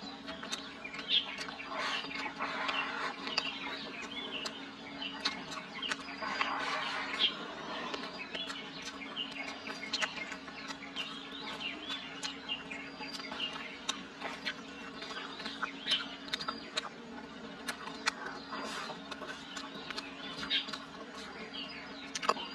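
Close-up chewing and mouth sounds of someone eating fried bacon, many small clicks and smacks, with birds chirping in the background.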